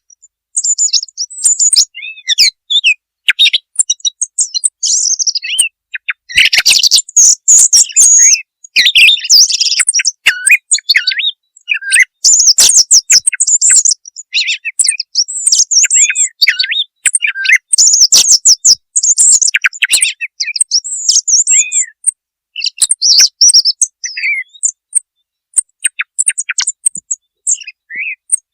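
Song thrush singing loudly: varied phrases of sharp whistled and chirping notes, coming in bursts with short pauses between them.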